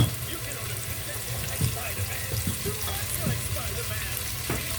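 Butter sizzling in a frying pan: a steady frying hiss, with a couple of light knocks.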